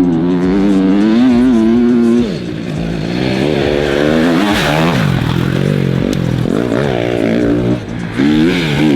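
Dirt bike engine running and revving. It holds a steady note for about two seconds, then its pitch rises and falls repeatedly as the throttle opens and closes, with a short drop just before the end.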